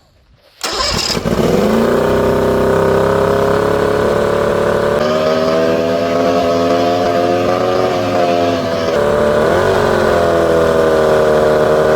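Mariner 40 hp two-stroke outboard starting up about half a second in, catching and rising in speed, then running with slightly wavering revs and a brief dip and pick-up near the end. It is running out of the water without flushing muffs.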